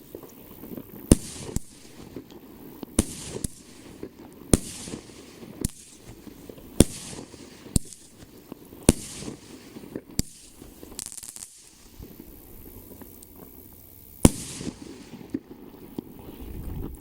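Fireworks going off: about a dozen sharp bangs roughly a second apart, with crackling and hiss between them, then a lull and one last loud bang about 14 seconds in.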